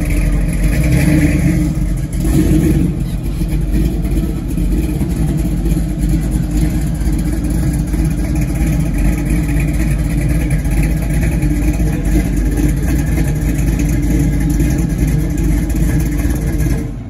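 Car engine running loud and steady, with a little revving in the first few seconds; the sound drops off suddenly at the very end.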